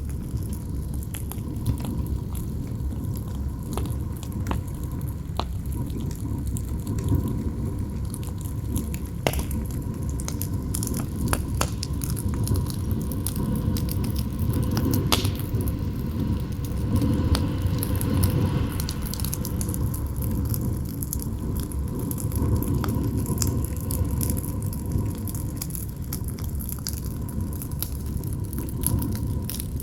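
Campfire crackling with irregular sharp snaps over a steady low rush of wind, which swells in a gust about halfway through. A faint steady howl of the wind runs underneath.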